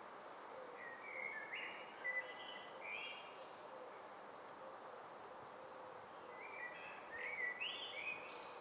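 A songbird singing two short phrases of stepped notes, about five seconds apart, over steady faint background noise.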